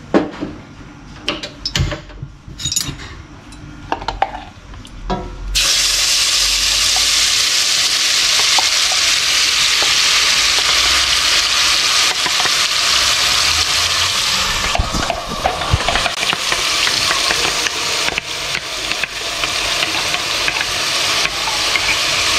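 Wet blended spice paste (shallots, garlic and candlenuts) hitting hot melted ghee in a steel pot and sizzling loudly. A few knocks and clinks come first, then the sizzle starts suddenly about five seconds in. It eases a little about fifteen seconds in, with irregular clicks over it.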